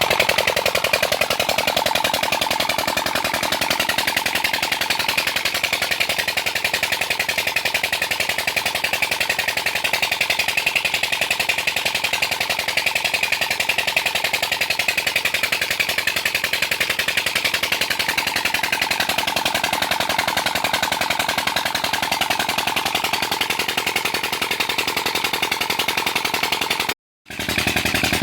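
Old diesel engine driving a tubewell pump, running steadily with a fast, even train of exhaust beats. The sound breaks off for a moment near the end, then resumes.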